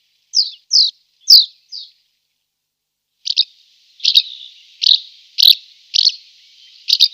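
Swallow twittering: short, quick, falling chirps, five in the first two seconds, then after a brief pause a run of chirps about every half second over a continuous twitter.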